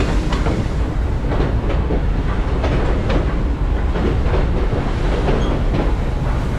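Western Maryland Scenic Railroad train rolling along the track: a steady rumble with irregular clacks and knocks from the wheels and cars.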